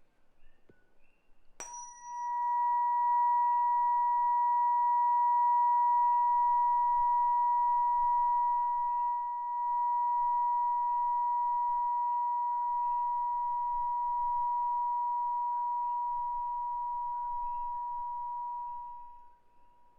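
963 Hz Solfeggio tuning fork struck once about a second and a half in, with a brief bright ping at the strike. It then rings as one steady pure tone for about seventeen seconds, slowly fading out near the end.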